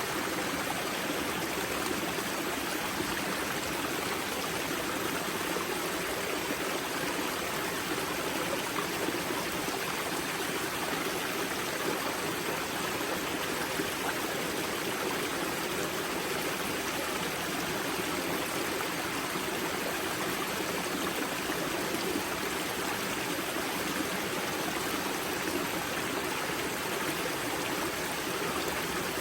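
Water rushing and splashing at the Grza river's spring, a steady, unchanging stream sound.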